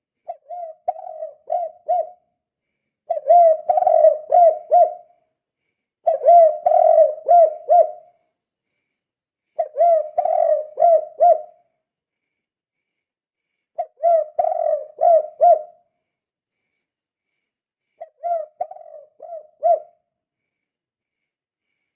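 Spotted dove (tekukur) cooing in the 'kuk 2' song style: six phrases of several quick low coos, each about two seconds long, with a pause of one to two seconds between phrases.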